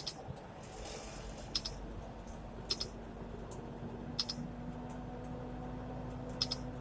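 Short sharp clicks, one every second or so and some doubled, over a low steady hum.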